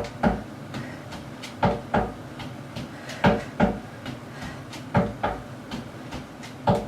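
Feet thudding on a plyo box while doing face melters, the legs alternating up and down: a pair of quick thumps about every second and a half to two seconds, with lighter taps in between.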